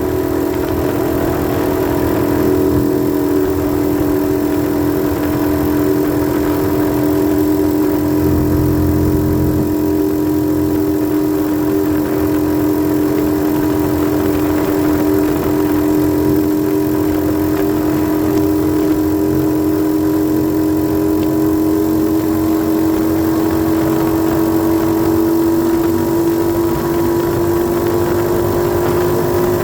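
A 90cc dirt bike's small single-cylinder engine running steadily under way, its pitch creeping slowly upward over the second half as the revs build.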